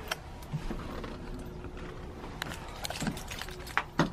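Wind rumbling low on the microphone, with a few sharp clicks and light jingling scattered through it.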